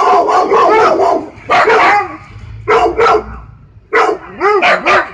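Husky barking in loud pitched bursts: a quick run of barks at the start, two single barks in the middle, and another quick run of barks near the end.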